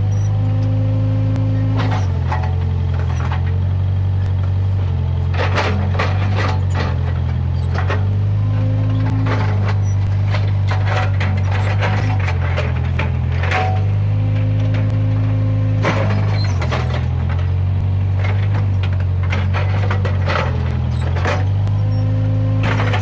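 Case 580G backhoe loader's diesel engine running steadily under load, its pitch stepping up and down every few seconds as the hydraulics work. Repeated sharp cracks and snaps of wood break through as brush and trees are pushed over.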